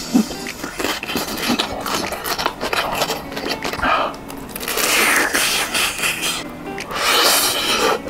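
Close-miked crunching and chewing of a crispy deep-fried skewer wrapped in fire-chicken noodles, with loud crunches about four seconds in and again near the end, over steady background music.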